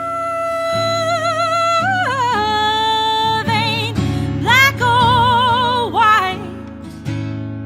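A woman singing long held notes with vibrato in a soul song, over acoustic guitar accompaniment. The voice steps down to a lower note, climbs to a high sustained note, and drops out about six seconds in, leaving the guitar.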